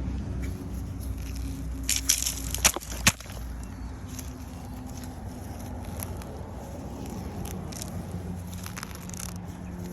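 Weeds being pulled by hand: crackling and snapping of stems and roots, loudest in a quick cluster of sharp snaps about two to three seconds in, then quieter scattered rustling and crackling. A low engine hum fades out about three seconds in.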